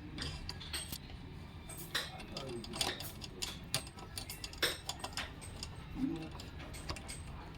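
Irregular sharp metallic clicks and taps of hand tools and small metal parts being handled, with faint voices in the background.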